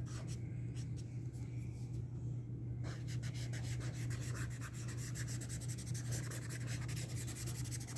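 Acrylic paint pen nib scratching across mixed media sketchbook paper, a rapid run of short strokes from about three seconds in, over a steady low hum.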